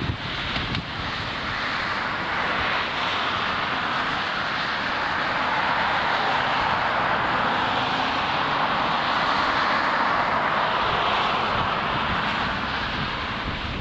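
Airbus A330-200 airliner on final approach, its jet engines making a steady rushing roar that swells to a peak and then slowly fades as it flies past.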